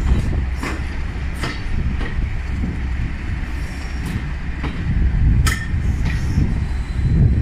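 Heritage railway carriage running along jointed track, heard from an open carriage window: a steady low rumble with irregular wheel clicks over the rail joints, the sharpest about five and a half seconds in.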